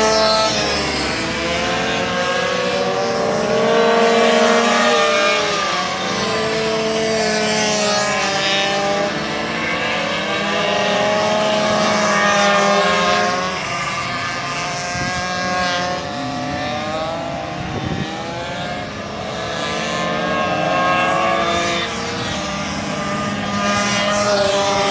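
Several racing minibike engines running at high revs, their pitches climbing and dropping every few seconds and overlapping as the bikes accelerate, shift and slow around the circuit.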